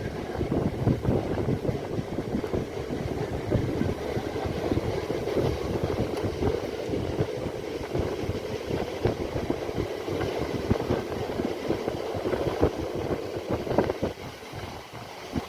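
Local passenger train running, heard from inside the coach: a steady rumble with frequent rattles and knocks.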